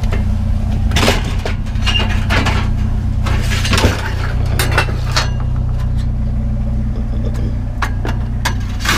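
Hard scrap items clinking and knocking as they are pulled out of a garbage can and handled, with a glassy ring to some of the clinks, over a vehicle engine idling steadily.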